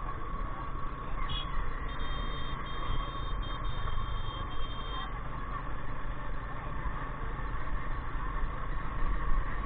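Royal Enfield Himalayan's single-cylinder engine running steadily while the motorcycle is ridden, heard through a helmet-mounted camera with road and wind noise. A steady high tone sounds for about three seconds, starting about two seconds in.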